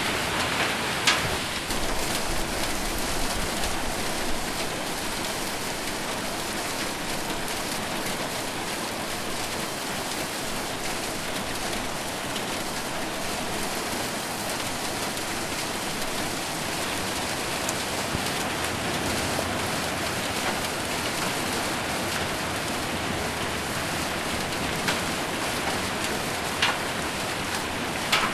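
Heavy rain with hail falling on a roof: a steady hiss of rain with a few sharp single strikes standing out, about a second in and near the end.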